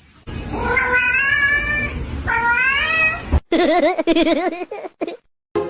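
Domestic cat meowing: two long drawn-out meows, then a wavering, warbling cry.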